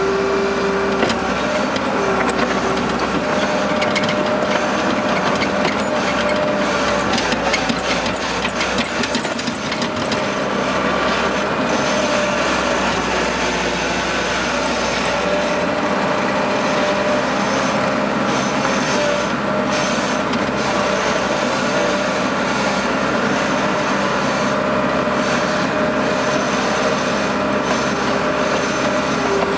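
Case skid-steer loader working, its diesel engine running steadily with a whine that comes and goes. About six to ten seconds in there is a run of clattering, scraping knocks.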